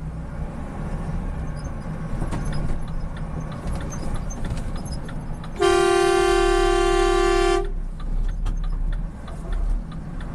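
A vehicle horn sounds one steady blast for about two seconds, a little over halfway through, over the steady rumble of road and engine noise in a moving vehicle.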